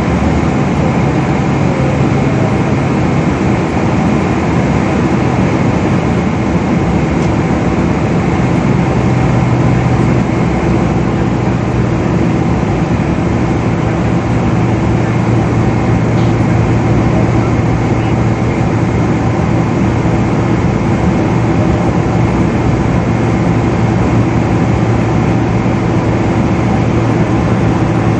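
Steady engine and airflow noise inside the cabin of a Boeing 777 airliner, a loud continuous rush with a low hum that grows a little stronger about nine seconds in.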